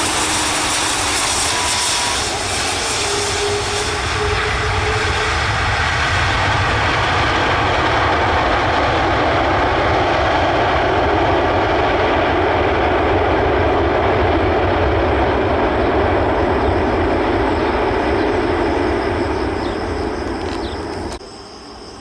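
Jet engines of a landing Airbus A330-300 airliner, running loud and steady and swelling a little in the middle. The sound cuts off abruptly near the end.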